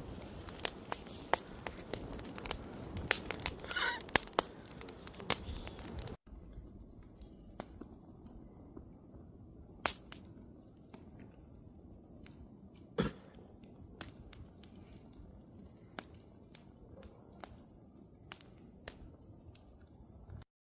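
Wood fire crackling, with many sharp pops and snaps from the burning logs. About six seconds in it cuts abruptly to a quieter crackle with sparser pops, and the sound stops just before the end.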